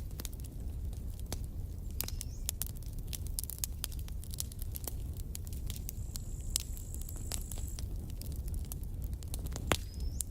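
Campfire crackling, with irregular sharp pops and snaps over a low steady rumble and one louder pop near the end. A thin high steady tone sounds faintly for a while in the middle.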